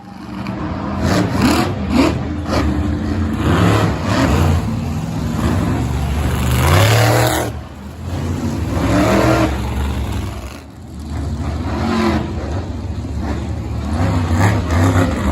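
Monster truck engine revving hard, its pitch rising and falling several times, with brief drops in power about halfway through and again a few seconds later.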